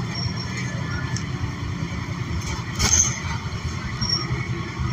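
Inside a New Flyer XN40 transit bus under way: its Cummins Westport L9N natural-gas engine and drivetrain running with a steady low rumble. A short rattle comes about three seconds in.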